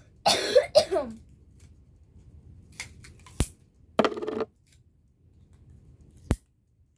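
Paper and sticky tape being handled while making a paper puppet: a short rustling burst, another around the middle, and two sharp clicks, one just before the middle and one near the end.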